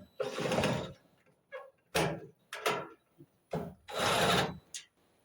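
Bursts of mechanical scraping and rattling, about six in all, the longest near the start and about four seconds in, as dryer parts and tools are worked during reassembly.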